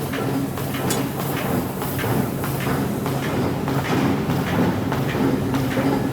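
Forging machinery running with a steady low hum, overlaid by irregular sharp knocks of metal on metal.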